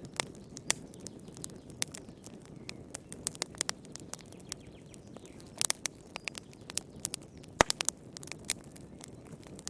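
Wood campfire crackling: irregular sharp pops and snaps over a soft steady hiss of flame, with one louder pop about two-thirds of the way through.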